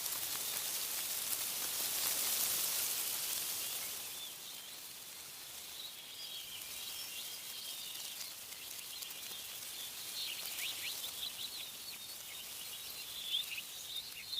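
A gust of wind rustling through tree leaves, swelling and then dying away in the first few seconds. Small birds then chirp and twitter in quick, high, short notes, busiest near the end.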